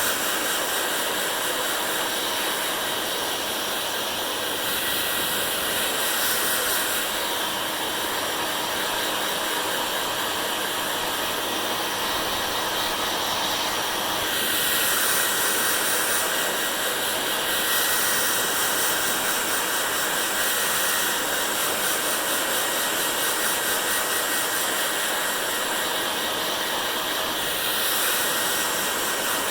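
Hair dryer blowing steadily, a rushing noise that shifts slightly in tone and loudness every few seconds.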